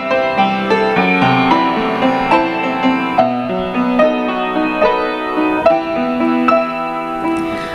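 Piano interlude between hymn verses: a gentle melody of struck notes over chords, at a moderate tempo.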